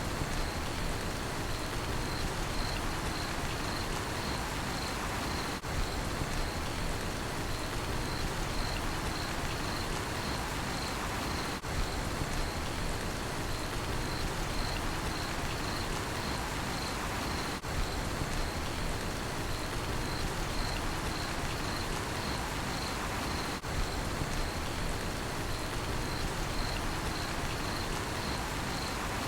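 Steady rain pattering, with a cricket chirping in a continuous high-pitched rhythmic trill. The sound dips briefly about every six seconds.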